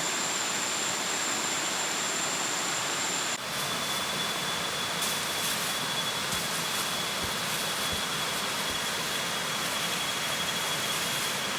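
Steady rushing roar of a waterfall, with a thin steady high whine above it.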